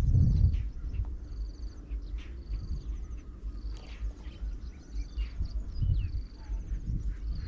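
Spotted dove cooing in low notes near the start and again around six seconds in, with insects trilling in short high bursts about once a second throughout.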